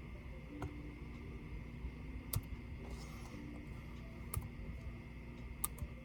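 A few sharp, isolated plastic clicks and taps from handling a Dell Vostro 13 5310 laptop, spaced a second or two apart, with a brief soft rustle near the middle, over a steady electrical hum.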